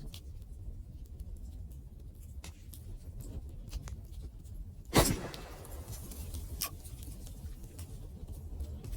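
Wood fire crackling, with scattered small snaps over a low steady rumble and one loud pop about five seconds in.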